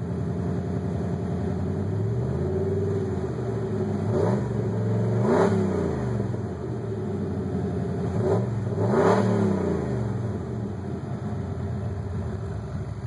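A 1995 Chevy K1500's 355 small-block V8, exhaling through a Cherry Bomb muffler, idling and being revved. There are two pairs of quick throttle blips in the middle, each rising and falling back, and then it settles to idle. The revs test a newly fitted Sunpro tachometer.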